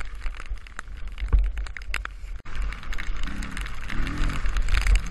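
Dirt bike engine revving in two short rises near the end, under heavy low rumble and scattered clicks and knocks.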